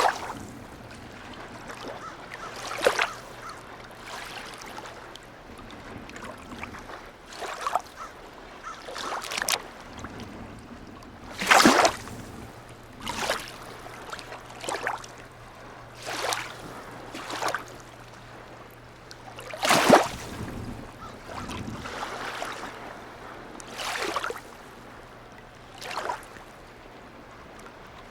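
Small harbour waves lapping and slapping against the quay, coming as irregular splashes every second or two, the loudest about twelve and twenty seconds in. A faint steady low hum runs underneath.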